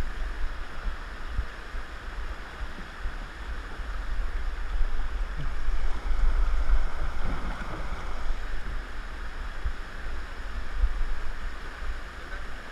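Rushing river water, with wind buffeting the action camera's microphone in a low rumble; the water grows louder for a few seconds around the middle.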